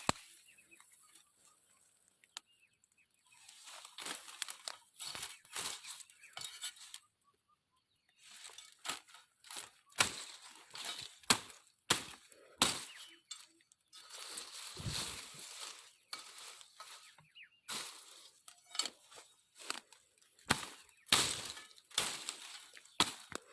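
Irregular rustling and crackling of leaves and branches, with sharp snaps, coming in spells with a couple of quiet gaps.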